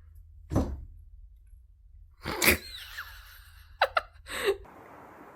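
Woodpecker pecking at wood: a few separate knocks spread over several seconds, with a quick double tap about four seconds in.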